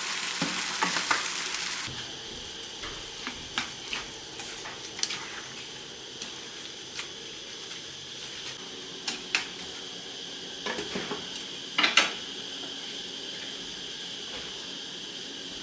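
Kitchen work: utensils clinking and knocking against pots and dishes in scattered strikes, the loudest about twelve seconds in, after a steady rush of noise for the first two seconds.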